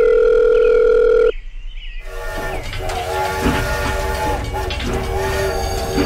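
A steady phone-style tone cuts off about a second in. About two seconds in, a toy steam train's whistle sound starts: long held chords in several stretches, over a hiss.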